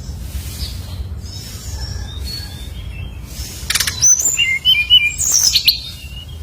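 Brown-chested jungle flycatcher (SRDC) singing: thin, high whistled notes and short gliding phrases. Livelier from just past halfway, with a louder run of quick chirps and sweeping notes. A steady low hum runs underneath.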